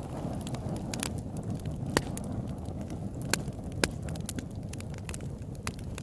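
Wood campfire burning with a steady low rumble and scattered crackles, including three louder pops about two, three and a half, and four seconds in.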